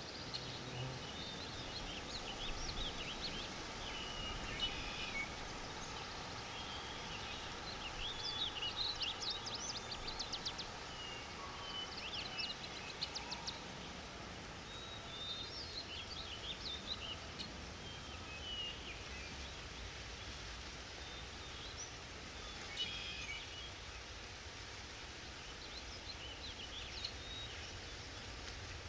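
Forest ambience: songbirds chirping and trilling on and off over a steady soft background hiss.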